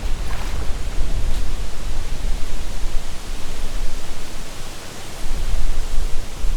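Wind gusting on the microphone, a fluctuating low rumble, over a steady hiss of wind through the trees' leaves. The gusts ease briefly about five seconds in, then pick up again.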